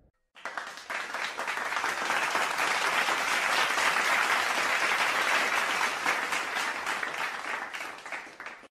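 Crowd applauding: dense clapping that starts a moment in, swells, then tapers off near the end and cuts out.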